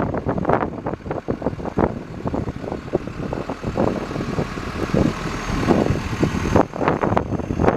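Diesel engine of a JCB JS145LC tracked excavator running.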